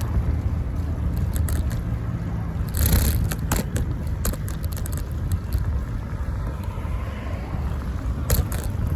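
Wind buffeting the microphone of a phone mounted on a moving bicycle, a steady low rumble, with scattered clicks and rattles from the bike and its makeshift phone holder over bumps, the loudest knock about three seconds in.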